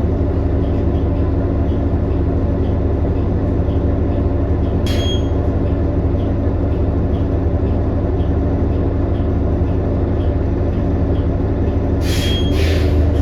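Inside a 2018 New Flyer XD40 diesel transit bus under way: a steady engine and drivetrain drone with several steady whining tones, which the rider counts among the bus's unusually messed-up sounds. A light tick repeats about twice a second, and two short hissing bursts come about five seconds in and near the end.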